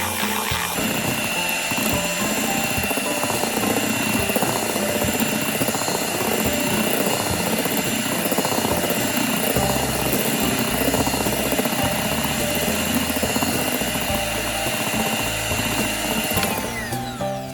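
Electric hand mixer running steadily, a continuous motor whir, stopping a second before the end as music takes over.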